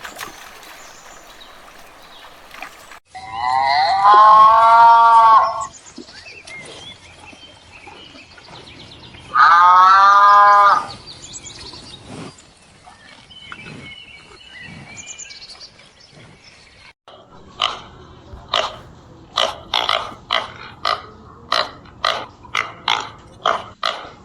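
Animal calls: two long, loud calls whose pitch rises and falls, then a run of short, sharp calls at about two a second near the end.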